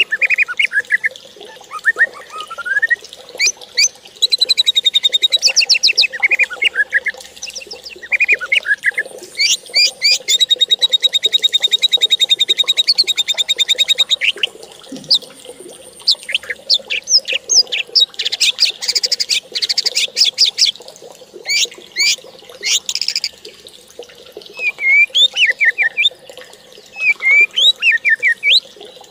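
Birds singing and calling: quick chirps and sweeping whistles, with a long rapid trill starting about ten seconds in.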